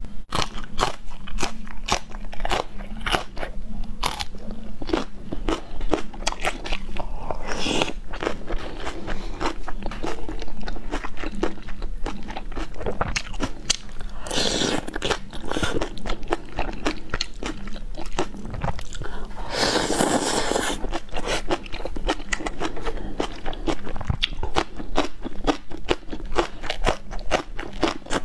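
Close-miked eating: crisp crunching bites and chewing of fresh green chili peppers, with three longer slurps from spoonfuls of sauce along the way. A low steady hum runs underneath.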